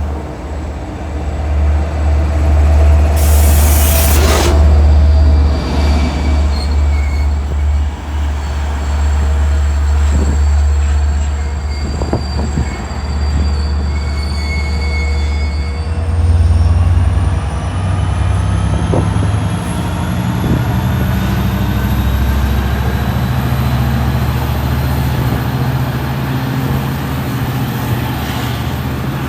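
Passenger train running close by with a heavy low rumble and thin wheel-squeal tones. A short burst of hiss comes about four seconds in. From about halfway, a whine rises steadily in pitch as the train picks up speed.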